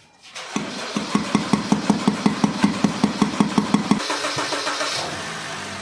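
Honda Crider's starter cranking the engine in even pulses, about five a second; about four seconds in the engine catches and runs. The car would not start because of a failing fuel pump, and tapping the pump's cover got it going.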